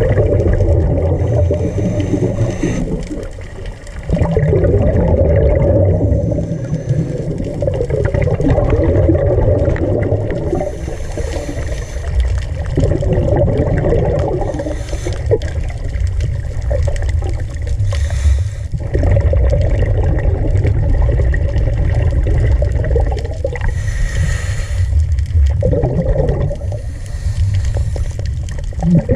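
Water heard underwater: a steady low rumble and gurgling, with short bursts of bubbles every few seconds.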